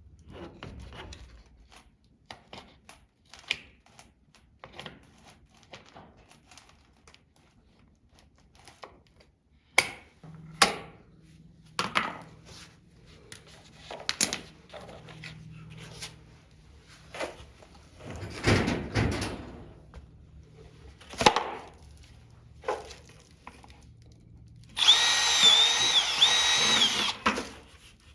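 Scattered knocks, clicks and clatter of plastic body panels and tools being handled, with a short scrape about two-thirds of the way through. Near the end a power drill runs for about two and a half seconds, its whine dipping and rising in pitch.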